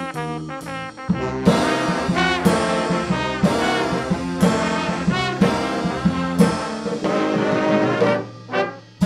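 A student band playing a holiday piece with prominent brass. The full ensemble comes in about a second in, and the music drops away briefly near the end before the next phrase starts.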